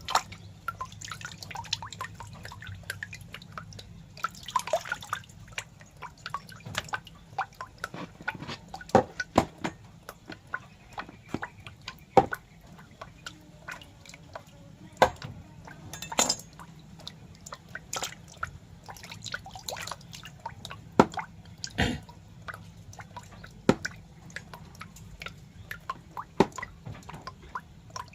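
Irregular sharp water drips, sometimes several a second and varying in loudness, over a faint low steady hum.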